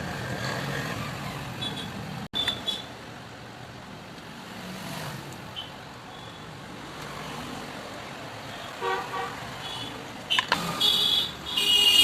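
Road traffic noise with vehicle horns tooting, the horns loudest near the end.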